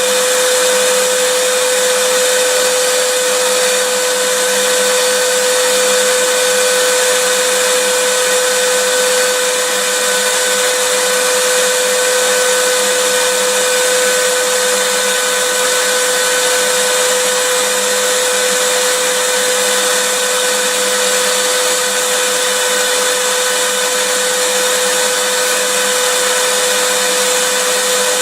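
Vacuum cleaner running steadily: a continuous rush of air with a steady motor whine.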